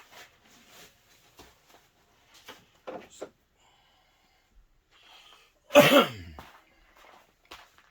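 A man coughs once, loudly, a little past the middle, among scattered light clicks and taps of handling.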